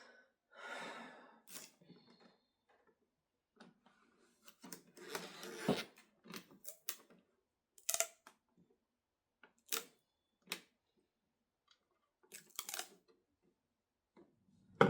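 Small scissors snipping a paper decal, with paper-handling rustles: a handful of short, separate snips and rustles with quiet gaps between them.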